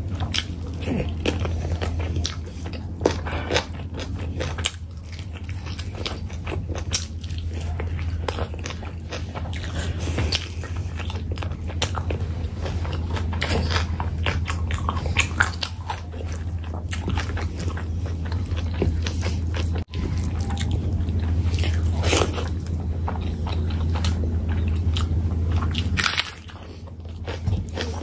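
Close-miked eating of chicken curry and rice by hand: biting, chewing, and wet mouth clicks and smacks in a dense, irregular stream. A steady low hum runs underneath and drops out briefly near the end.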